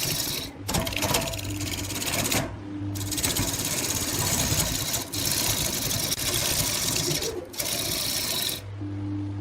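Wood lathe running while a turning tool cuts the spinning wood: a steady hiss of cutting, broken several times by short gaps where the tool comes off the wood and only the machine's low hum remains, the last gap near the end.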